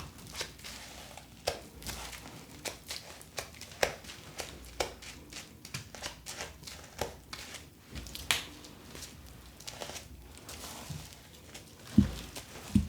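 Plastic doll packaging being handled, crinkling and crackling in many short sharp bursts, with two dull thumps near the end.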